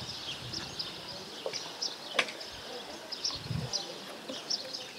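Small birds chirping on and off in short high chirps, with a sharp click a little after two seconds in and a soft low thump about a second later.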